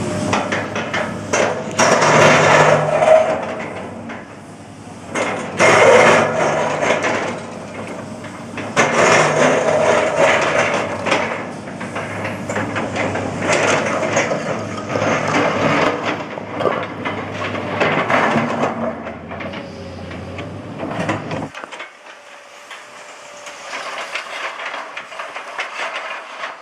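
Komatsu PC210 excavator's diesel engine running under load while its bucket works concrete sidewalk slabs, with repeated loud scraping, cracking and clattering of concrete every few seconds. The low engine hum cuts off suddenly about three-quarters of the way through.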